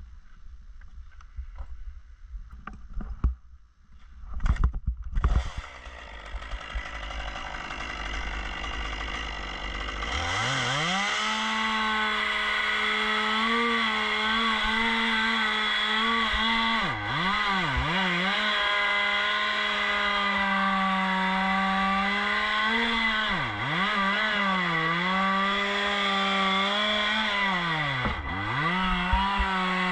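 Two-stroke chainsaw starting about a third of the way in, its pitch climbing fast to full revs and held there, dropping off briefly three or four times as the throttle is let off and opened again. A few loud knocks or rattles come before it starts.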